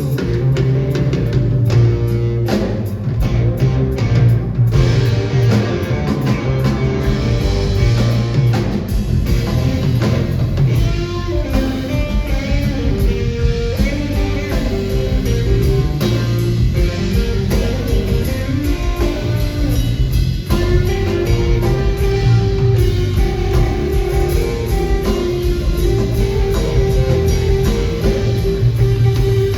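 Live blues-rock band playing: electric guitar over bass and a drum kit, steady and loud.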